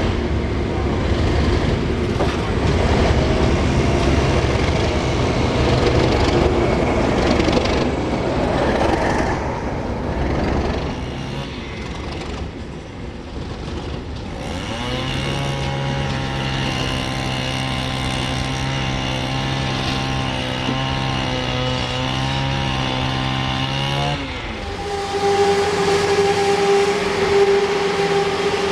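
Train noise: a train rumbling past for the first ten seconds or so, then a steady pitched engine drone for about nine seconds that cuts off suddenly, followed by a steady whine near the end.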